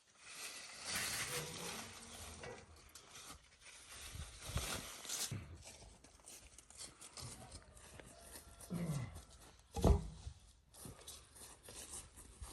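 Farm animals calling, with several short calls that fall in pitch, and a loud sudden sound near the end.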